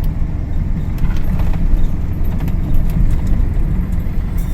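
Ford F-150 pickup engine running while driving, heard from inside the cab as a steady low rumble mixed with road noise. The engine runs a little rough, which the owner puts down to a fuel-supply problem.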